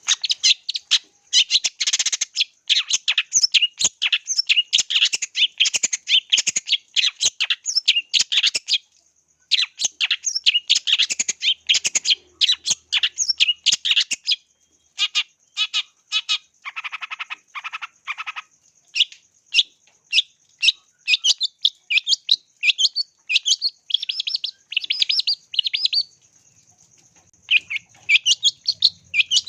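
A long-tailed shrike (cendet) singing in long runs of rapid, sharp chirps broken by brief pauses, with a harsher buzzy rasp about halfway through.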